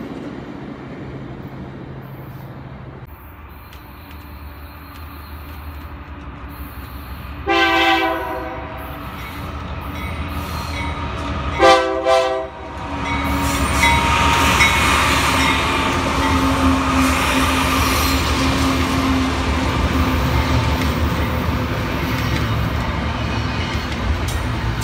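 A passing Metrolink commuter train's rumble fades in the first few seconds. Then a BNSF freight diesel locomotive sounds its horn twice, each blast about a second long, and the double-stack container train rolls past with a steady rumble and wheel-on-rail noise.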